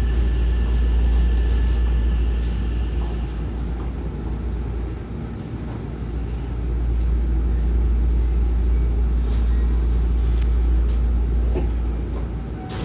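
Hankyu Takarazuka Line train car heard from inside, a steady low running rumble as it comes into the station, dipping briefly about halfway. A few faint clicks along the way and a sharp knock near the end.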